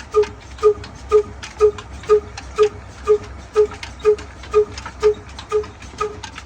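Diesel engine running slowly, with a steady beat of about two strokes a second over a low rumble.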